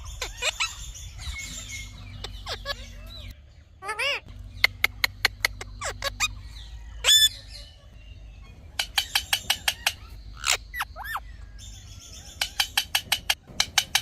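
Indian ringneck parrot calling: three bouts of short, sharp chirps at about five a second, with a few longer rising-and-falling call notes between them.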